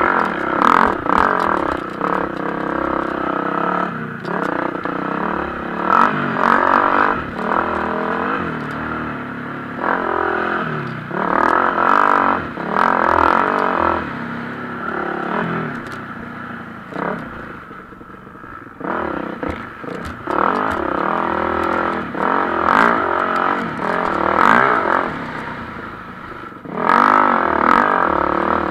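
MX1 motocross bikes racing, engines revving hard and dropping off over and over as riders open and close the throttle and shift through the gears. Several loud surges as bikes pass close, with a quieter stretch about two-thirds of the way through.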